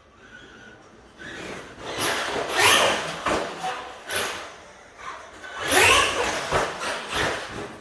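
Traxxas E-Revo 1.0 RC monster truck running on 6S with its Castle Mamba Monster brushless motor and ESC, making two hard bursts of acceleration, each with a whine that rises in pitch, the first about two seconds in and the second about six seconds in.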